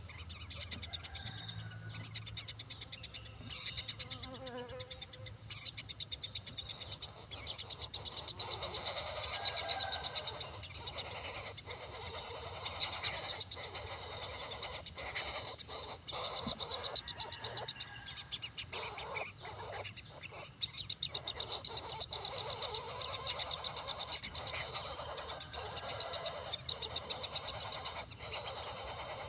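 Steady chorus of insects trilling high and fast, with a few sharp clicks around the middle.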